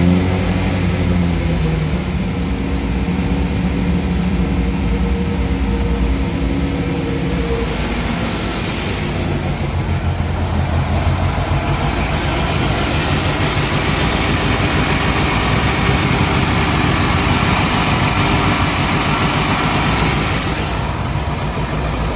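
Ferrari Mondial's V8 engine running hot with the accelerator held, its pitch rising briefly at the start and then steady. The electric radiator fan, switched on by its thermostat once the engine is warm, runs along with it, and a louder even rush comes in from about eight seconds in until near the end.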